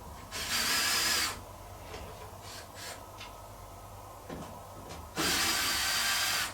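A small electric motor whirs in two short bursts, each with a steady high whine: the first lasts about a second, the second starts about five seconds in. Light clicks and knocks come between them.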